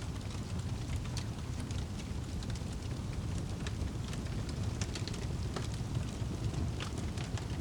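Wood fire burning in a fireplace, a steady low rumble of flames with frequent small, sharp crackles and pops scattered throughout.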